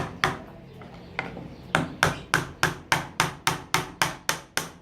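Hammer driving a small nail into a block of wood: two strikes, a short pause, then a steady run of quick strikes, about four a second.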